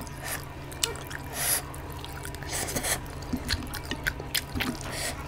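Close-miked wet chewing and lip smacking of someone eating oily mutton curry with rice, with irregular sticky clicks and smacks.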